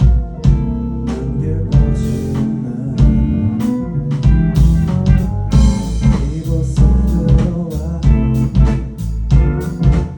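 Live rock band playing: electric guitar and bass over a drum kit, with steady drum hits throughout.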